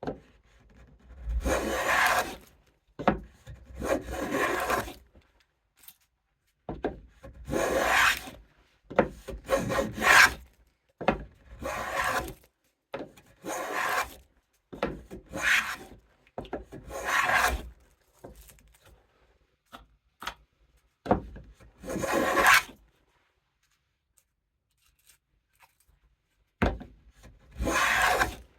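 Hand plane cutting a rabbet in oak: about ten push strokes, each a second or so of shaving hiss, roughly every two seconds, with a pause of a few seconds near the end.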